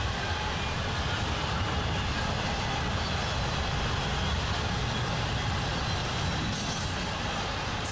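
A passing train rolling by steadily, its wheels on the rails making a continuous low rumble.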